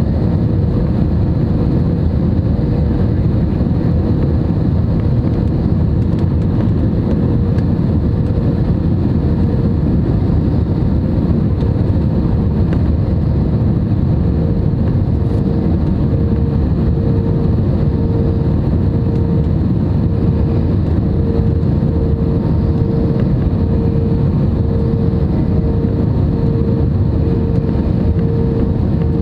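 Steady cabin noise of an Airbus A320neo airliner in flight: a constant rumble of engines and airflow, with a steady hum that swells and fades slowly.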